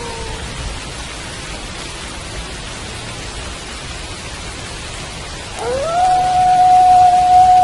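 Steady rain with wolf howls: one howl falls away and ends just after the start, and about five and a half seconds in another wolf howl rises quickly and is held on one long note.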